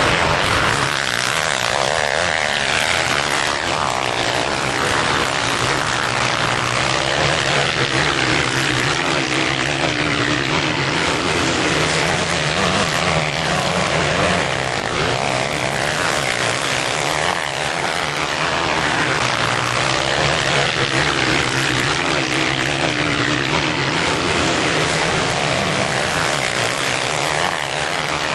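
Several motocross bikes racing, their engines revving up and down continuously and overlapping.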